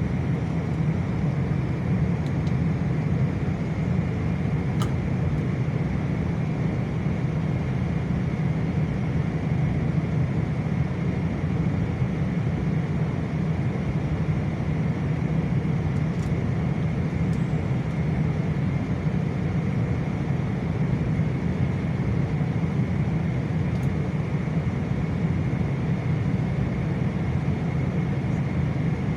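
Steady drone of engine and airflow noise inside a Boeing airliner's cabin, unchanging throughout, with a few faint clicks.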